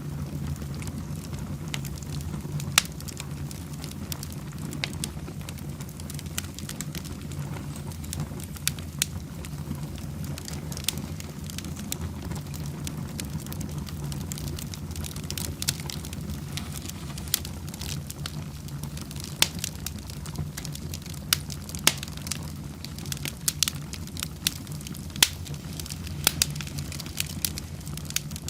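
Fireplace fire burning: a steady low rumble with irregular sharp crackles and pops scattered throughout.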